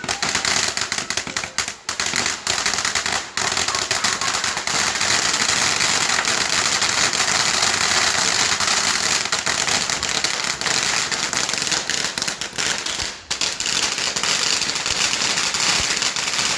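A firework crackling and popping continuously, a dense rapid crackle with hiss, broken by a few brief dips.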